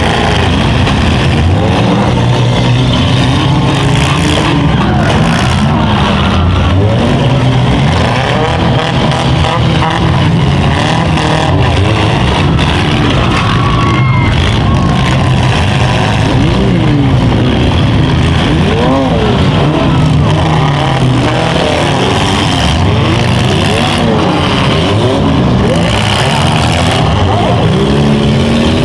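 Several small-car engines in a demolition derby heat revving hard at once, their pitches rising and falling over one another without a break.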